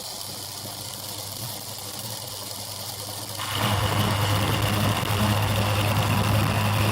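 Lead-out motorbike engine running steadily, then suddenly louder and harsher about three and a half seconds in.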